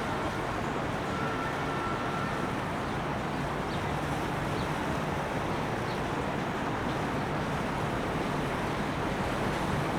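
Steady low motor rumble mixed with outdoor noise, even in level with no clear rise or fall.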